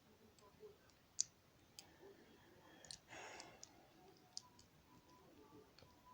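Faint, sharp plastic clicks from Lego pieces being handled, a few separate ticks with a brief rustle about three seconds in.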